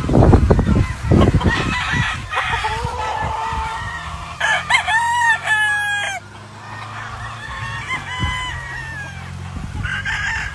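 Gamefowl roosters crowing, with one loud, drawn-out crow about four and a half seconds in and shorter calls before and after it. Low thumps are heard over the first couple of seconds.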